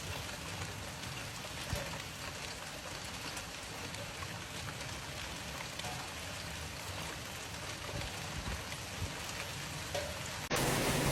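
Steady rain falling on hard surfaces, with a few faint drip ticks. About ten and a half seconds in it cuts abruptly to a louder, steady rushing noise.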